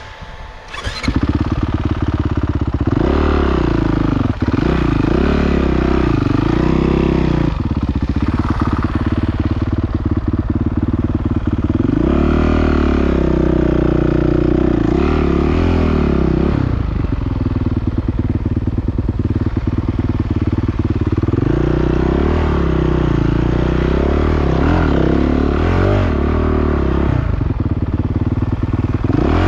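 Motocross motorcycle engine running hard, its pitch repeatedly rising and falling as the throttle is opened and closed. It comes in loudly about a second in, just after a sharp click.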